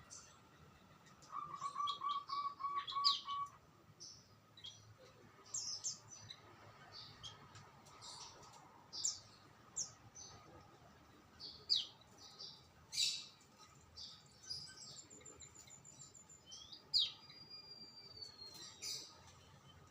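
Songbirds chirping and calling: scattered short, high chirps throughout, with a quick run of evenly repeated lower notes about a second in and a few whistled gliding notes near the end.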